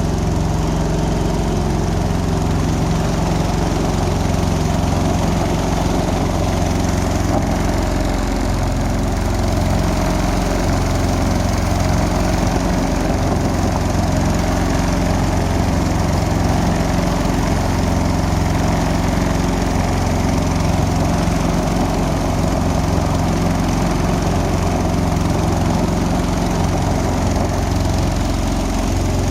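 Boat engine running steadily at an even speed, its pitch unchanging throughout.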